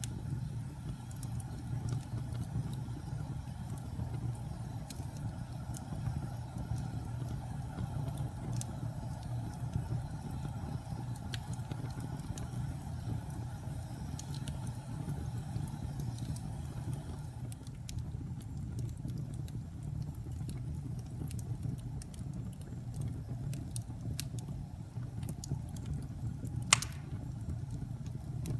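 Fire burning with a steady low rumble and scattered crackles throughout, and one sharp, loud pop near the end.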